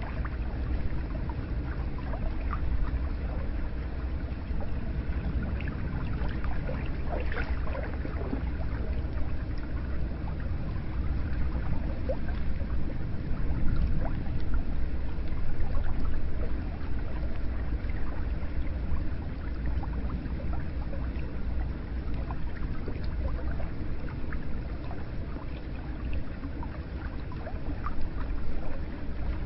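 Hot spring water pouring and splashing steadily into a bath, with small drips and gurgles over a low rumble.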